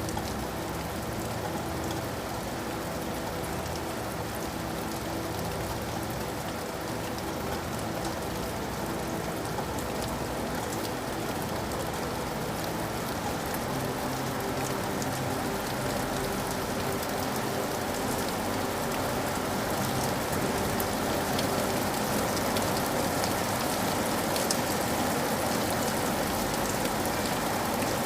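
Steady rain falling, with the crackle of individual drops hitting a surface throughout; it grows a little louder in the second half.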